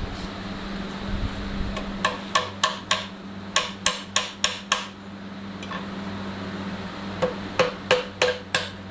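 About fifteen sharp hammer blows on metal in three quick runs, a few blows a second, working loose a stubborn bolt on the engine's cylinder block.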